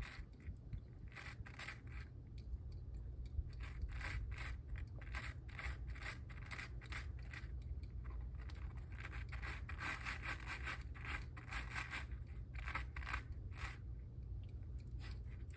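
A German Shorthaired Pointer puppy crunching and chewing chunks of ice: irregular runs of sharp crunches with short pauses, over a steady low rumble.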